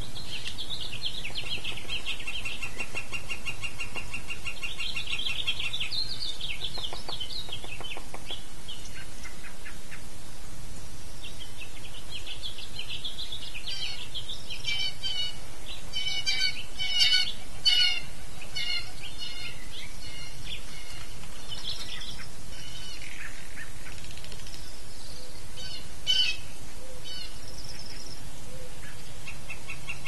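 Wild birds calling. A long, fast run of repeated notes fills the first several seconds, then a cluster of louder, harsher calls comes around the middle, with one more sharp call later.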